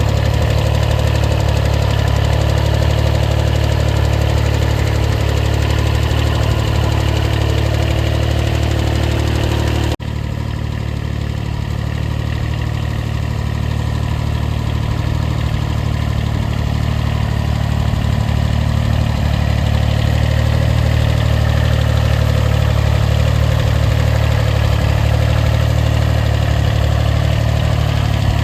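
A small tractor's diesel engine running steadily at an even speed. About ten seconds in the sound breaks off abruptly and resumes a little quieter, then slowly grows louder again.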